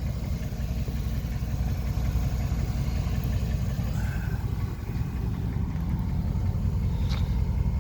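Chevrolet Avalanche pickup's V8 engine idling steadily, with a brief faint tick about seven seconds in.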